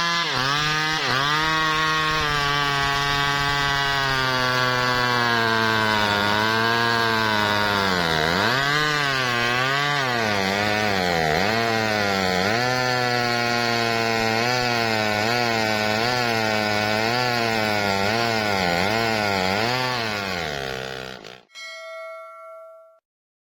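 Chainsaw engine running under load while cutting wood, its pitch dipping and recovering again and again as the chain bites. It cuts off abruptly near the end, followed by a short steady electronic tone.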